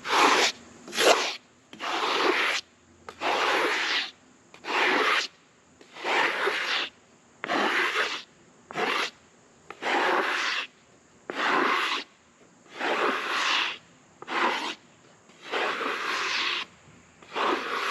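Wooden paint stick scraping sawdust off the face of a freshly sawn oak slab, in repeated scraping strokes roughly one a second.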